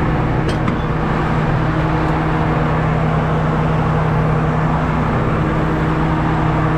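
Combine harvester running steadily, a constant machine hum under a wash of mechanical noise, with its newly replaced bearing in place.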